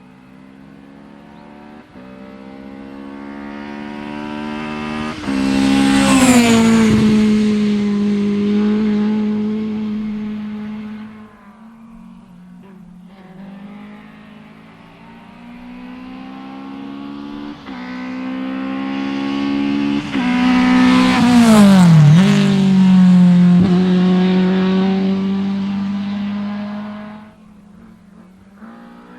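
Two racing Lada cars with four-cylinder engines pass in turn at full throttle. Each engine note climbs through gear changes as it approaches, drops sharply in pitch as it goes by (about six seconds in, then about twenty-one seconds in), and fades away.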